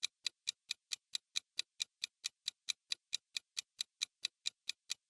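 Clock-tick countdown timer sound effect: fast, even ticking at about four or five ticks a second, counting down the time to answer a quiz question.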